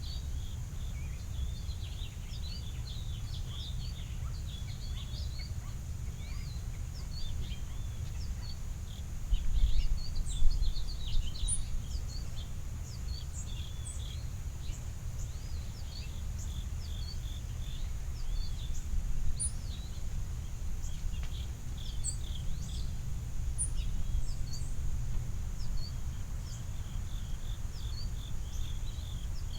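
Field-recorded backyard birdsong: many small birds chirping and calling in quick, overlapping short notes over a steady high insect drone and a low outdoor rumble. The rumble swells louder for a couple of seconds about nine seconds in.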